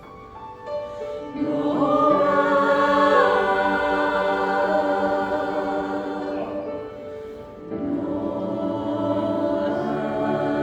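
Choir singing sustained chords with instrumental accompaniment; it starts softly, swells loud about a second and a half in, dips briefly near the middle and comes back in.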